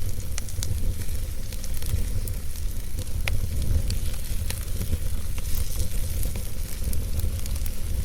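Campfire burning, hissing and crackling with scattered sharp pops, over a steady low rumble.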